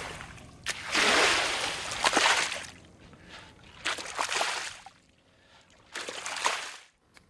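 Water sloshing and splashing in several separate swells, each about a second or two long, with quieter gaps between them.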